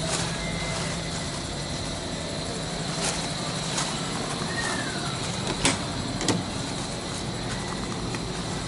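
Toyota 2L-T four-cylinder turbo diesel running steadily with a low drone. A few sharp clicks come through, the loudest a little over halfway in.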